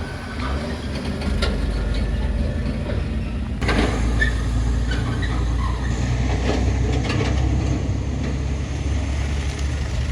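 Heavy truck's diesel engine running close by with a steady low rumble, overlaid with clattering rattles; the noise gets louder about a third of the way in.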